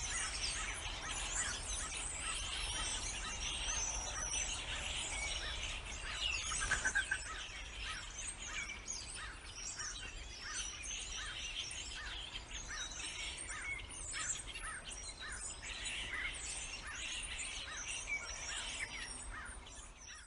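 Many birds chirping and calling at once in a dense chorus, with one short chirp repeated about twice a second through the second half, fading out at the end.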